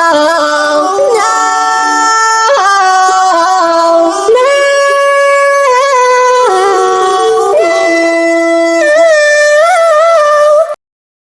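Wordless singing from the edit's song: long held notes that slide and waver in pitch, possibly more than one voice, cutting off abruptly near the end.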